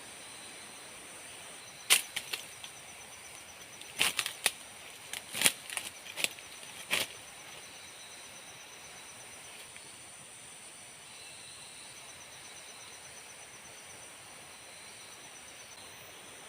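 A short run of sharp knocks or snaps, about eight of them, clustered between two and seven seconds in. Under them runs a steady high drone of forest insects.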